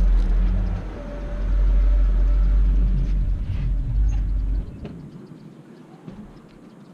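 A loud, deep rumble that cuts off suddenly about four and a half seconds in, leaving only faint clicks.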